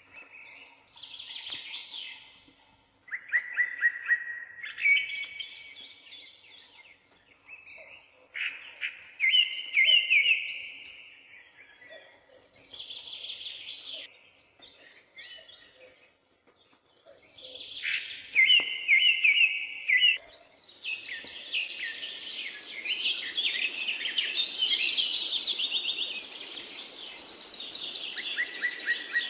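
Birds singing: short chirping and trilling phrases with brief pauses between them, becoming a denser, unbroken chorus in the last third.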